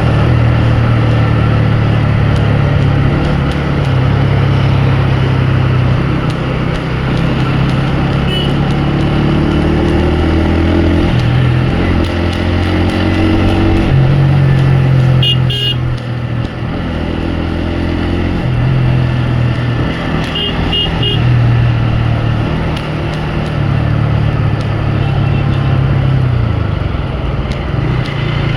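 Motorcycle engine running while riding in city traffic, its note stepping up and down with throttle and gear changes. Short horn beeps sound a few times.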